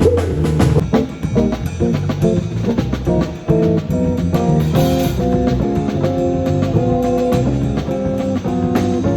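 Live band playing an instrumental passage: drum kit with guitar and held chords.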